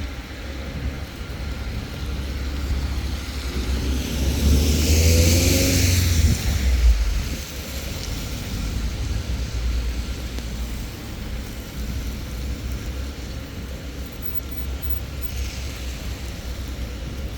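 A car passing on a wet road, its tyres hissing through the water and its engine rising in pitch, loudest about four to six seconds in. A fainter pass comes near the end, over a steady low rumble.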